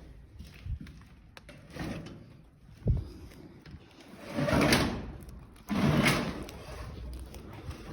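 A heavy door being pushed and swung: a sharp knock about three seconds in, then two long, loud scraping sweeps in the second half.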